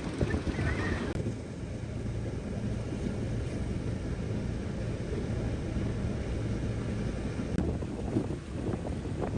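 4x4 vehicle's engine running steadily with a low hum, with wind noise over it. A brief high-pitched squeak sounds within the first second.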